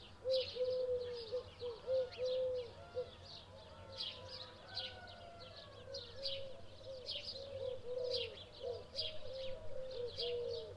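Several songbirds calling at once: quick high chirps repeating about twice a second over a steady run of short, lower, arched whistled notes.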